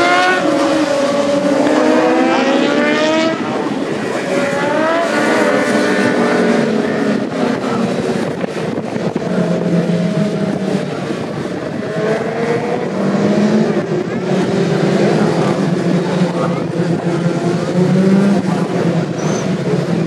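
Several racing superbike engines running hard, their notes rising repeatedly through the gears as the bikes accelerate in the first few seconds, then holding steadier as the sound of the pack carries on.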